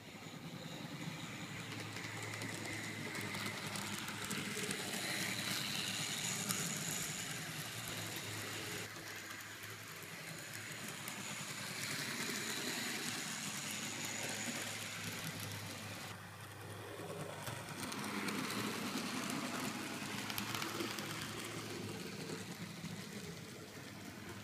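N-scale model diesel locomotive running along the layout's track: small electric motor and wheel-on-rail noise over a steady low hum, growing louder and fainter in slow swells as the train moves nearer and farther away.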